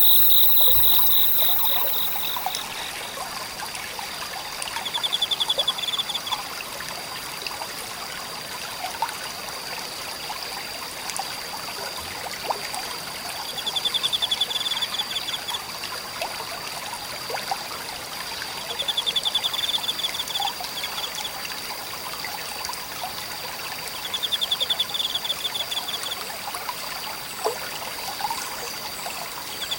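A small forest stream trickling and burbling, under a steady high insect trill. A louder pulsed insect call of about a second repeats roughly every five seconds.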